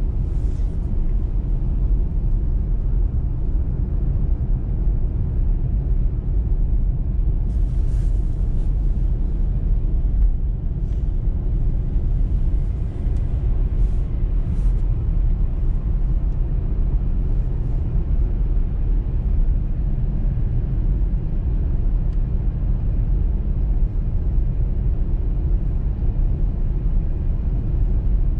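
Car driving on a snowy motorway: a steady low rumble of engine and tyres on the road, with a few brief high hisses about a third of the way in.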